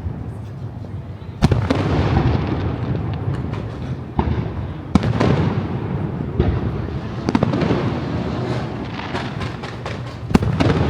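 Fireworks display: aerial shells bursting with sharp bangs every one to three seconds, each followed by crackling and rumble that fade away.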